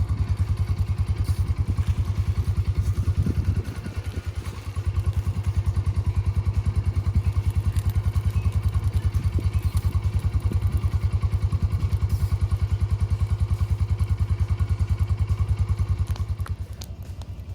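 Kawasaki Mule utility vehicle's engine idling with a steady, rapid low chug; it dips briefly about four seconds in and drops quieter near the end.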